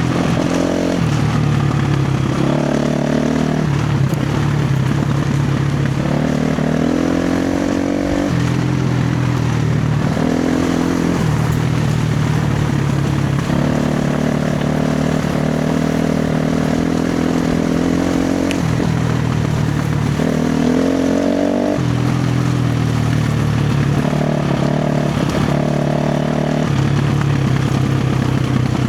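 KTM 350 XC-F dirt bike's single-cylinder four-stroke engine running hard on a trail ride. Its note holds steady for a few seconds at a time and then jumps up or drops as the throttle opens and closes and the gears change, over a constant rushing noise.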